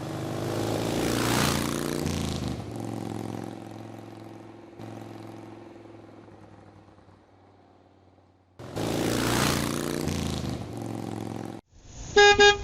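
Motorbike engine running and passing by, swelling and then slowly fading away. A second burst of engine noise starts about nine seconds in, and a short, loud horn beep sounds near the end.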